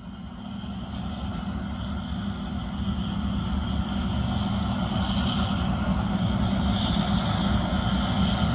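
Steady mechanical hum of running machinery, growing louder over the first few seconds and then holding steady.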